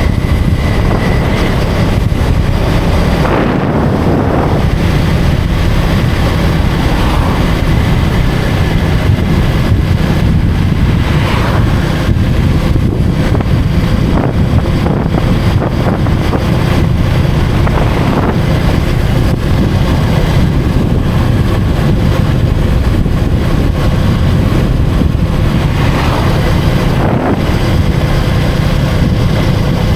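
Motorcycle engine running while riding through street traffic, a steady low rumble with wind rushing over the microphone.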